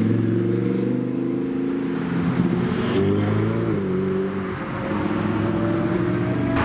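Supercar engine running at low speed as the car creeps along, its pitch rising and falling with light throttle.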